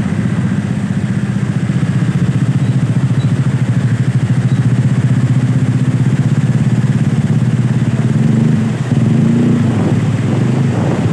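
Small engine running steadily with a fast, even firing pulse; it dips briefly and shifts pitch about nine seconds in.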